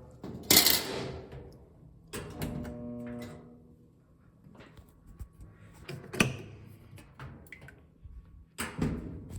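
Knocks and clatter of hard parts being handled on a washing machine, the loudest about half a second in. A brief electric hum comes about two to three seconds in.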